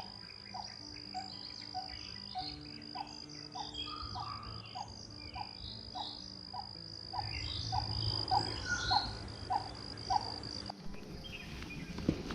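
Outdoor nature sound: insects keep up a steady high-pitched trill while several birds chirp, and one repeats a short low note about twice a second. About eleven seconds in, the insect trill and the repeated note stop abruptly.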